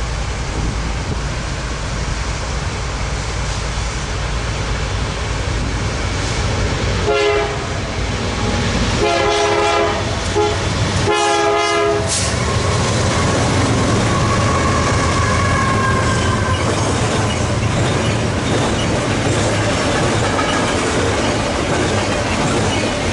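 Eastbound BNSF double-stack freight passing, led by GE diesel locomotives: steady engine rumble, the horn sounded three times (one short blast, then two longer ones) about seven to twelve seconds in, then wheel squeal and rolling rail noise as the cars go by.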